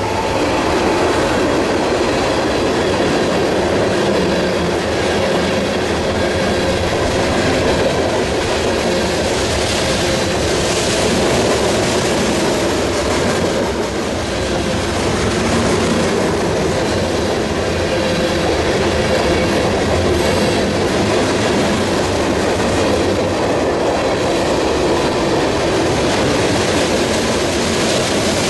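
Freight cars of a CSX manifest train rolling past, a steady loud rumble and clatter of steel wheels on the rails.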